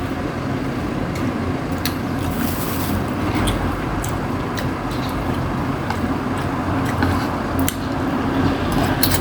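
Close-miked eating of rotisserie chicken: chewing and tearing meat, with scattered sharp mouth clicks and smacks, over a steady low rumble.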